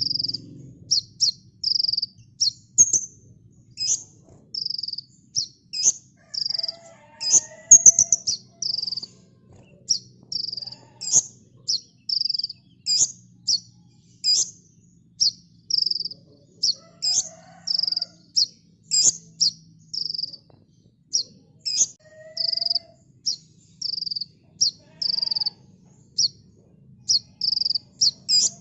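Kolibri ninja (little spiderhunter) singing a fast, continuous run of short, high chirps, about two a second: each a quick downward-sweeping note followed by a brief buzzy note.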